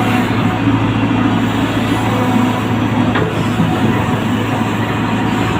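A machine engine running steadily, with a continuous low hum under dense mechanical noise.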